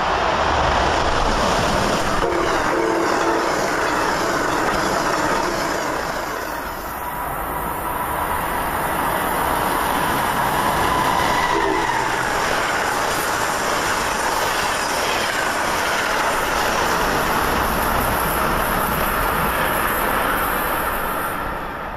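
Amtrak passenger train passing at speed: a steady rush of wheels on rail, with a short horn blast about two seconds in and another brief one near the middle.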